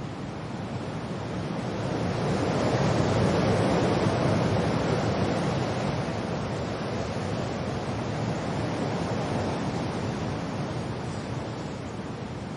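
Wind and rain: a steady rushing noise that swells into a gust about two seconds in, then slowly dies back.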